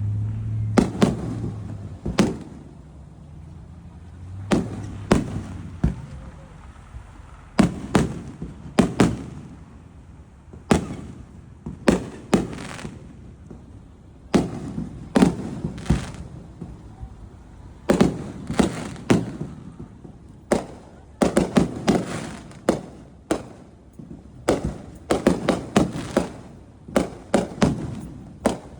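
Fireworks going off: a long run of sharp bangs and cracks at irregular intervals, some single and some in quick clusters, coming more densely in the second half.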